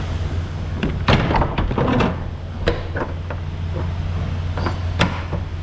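A few sharp knocks and clunks over the steady hum of an idling semi-truck engine.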